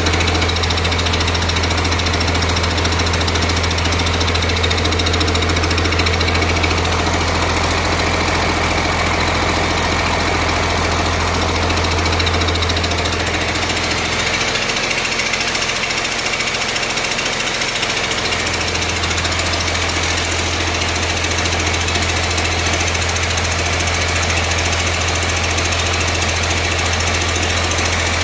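Cummins 5.9 L 6BT inline-six diesel running with a steady clatter on its first start-up, with an air compressor running loudly alongside.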